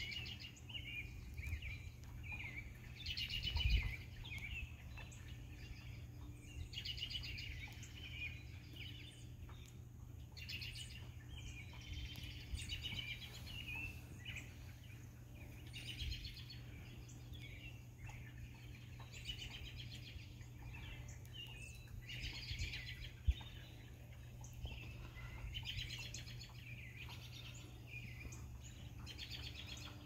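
Songbirds chirping and trilling in quick repeated bursts, over a steady low rumble of background noise. A low thump about four seconds in and a sharp click near the end of the second third stand out above it.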